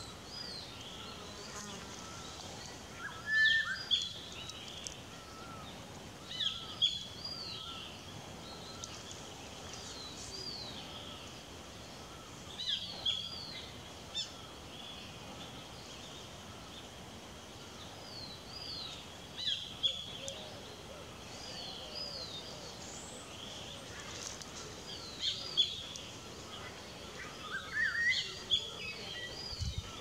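A bird calling in short, high chirping phrases that repeat every few seconds, over a steady insect buzz.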